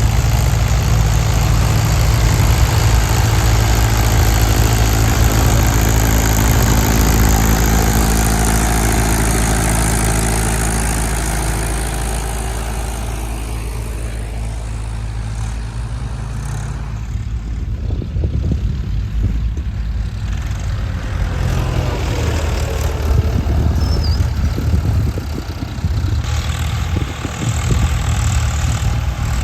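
Heavy machinery's diesel engine running, easing off and quieter for a while midway, then louder again near the end.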